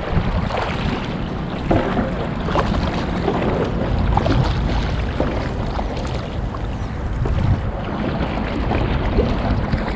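Paddle strokes splashing and dripping in the water, with wind rumbling on the microphone.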